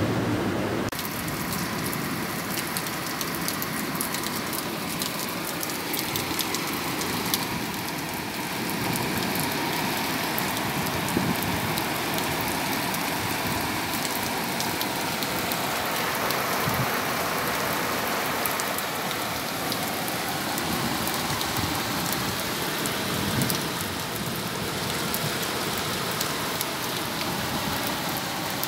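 Heavy rain falling steadily on a flooded street, a continuous hiss full of fine drop impacts.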